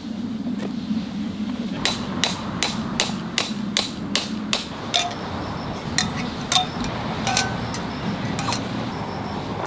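A hammer striking metal, with a short ring after some of the blows: a quick run of about eight blows, a little under three a second, then a few slower, spaced strikes.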